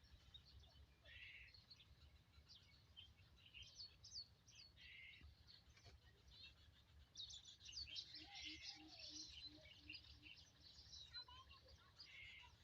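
Faint birds chirping and whistling, many short high calls, with a run of about six low, evenly spaced notes from another bird about two-thirds of the way through.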